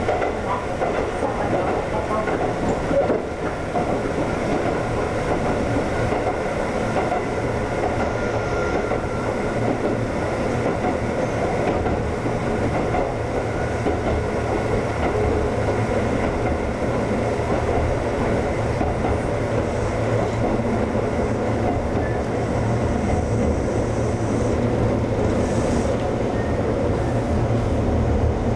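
Ex-Tokyu 7000 series electric train running along the line, a steady rumble of wheels on rails heard from on board.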